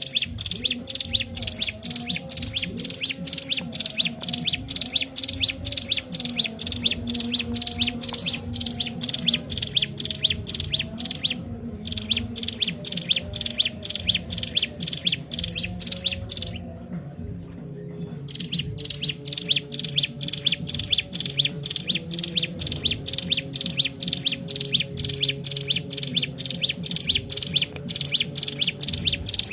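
Ciblek gunung (a mountain prinia) singing without letup: a fast, even run of sharp, high chirps, about four a second, broken by one short pause a little past the middle.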